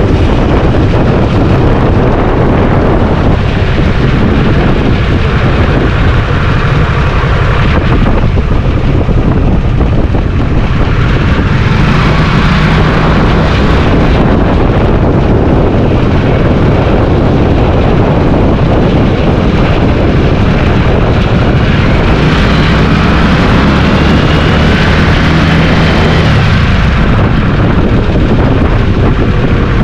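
Motorcycle engine running under way, with heavy wind buffeting on the microphone. The engine note holds steadier and higher for stretches about twelve seconds in and again from about twenty-two seconds, then eases off near the end.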